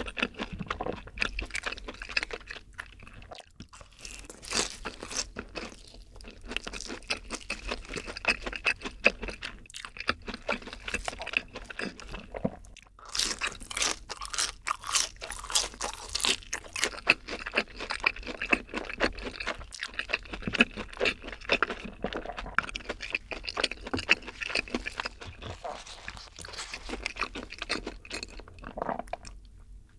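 Close-miked crunching and chewing of a breaded cheese stick, many crisp crunches in quick succession, loudest around the middle.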